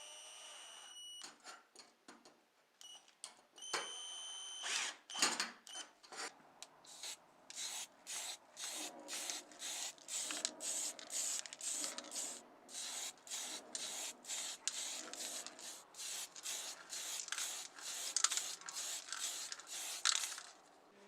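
A steady high electronic beep at the start and again briefly about four seconds in. Then a long run of quick, even scraping or brushing strokes, about two a second, that stops just before the end.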